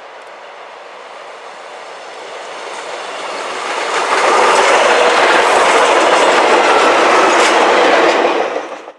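A train passing close by, its wheels clattering over the rail joints, growing louder until about four seconds in and staying loud before cutting off suddenly near the end.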